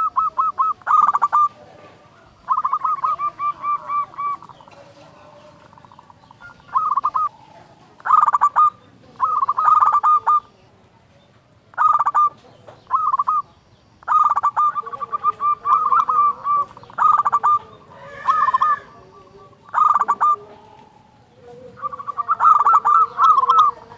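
Zebra dove (perkutut) cooing: phrases of quick, repeated notes, each about a second long, coming every second or two with short pauses between.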